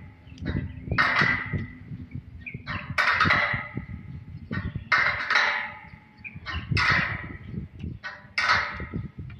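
A bird, likely a fowl, calling again and again in short squawking bursts of one to three calls, a cluster every second or two, with light low knocks underneath.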